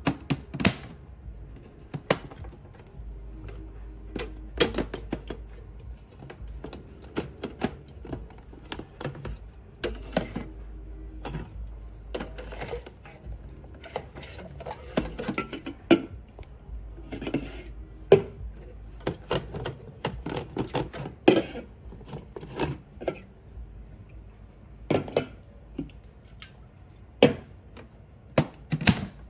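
Irregular clicks, knocks and clatter of hard objects being handled, some sharper and louder than others, over a low steady hum.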